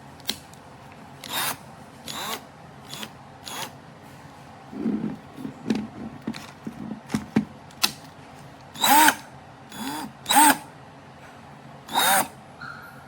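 Cordless impact wrench's motor run in about a dozen short trigger bursts, each a brief whir that rises and falls in pitch.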